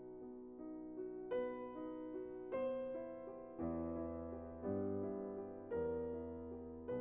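Soft background piano music: slow chords struck about once a second and left to ring and fade, with deeper bass notes joining midway.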